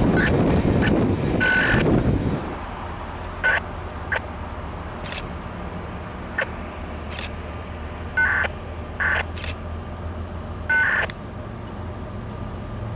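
Train rolling past, its wheel and rail noise ending about two seconds in. Then come several short, irregular beeps over a quieter background with a faint steady high tone.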